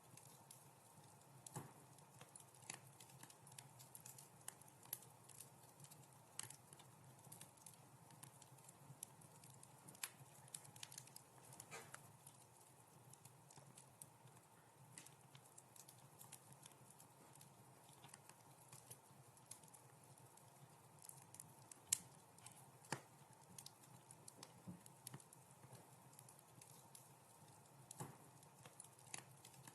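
Wood fire crackling in a fireplace: faint, irregular snaps and pops over a quiet steady background, with one sharper pop about two thirds of the way through.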